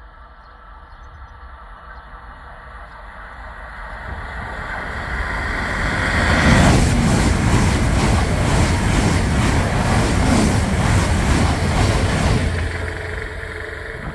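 An ICE high-speed train passing through the station at speed. Its rushing, rolling noise swells over the first few seconds and is loudest for about six seconds, with a quick regular beat as the bogies go by, then fades as the train draws away.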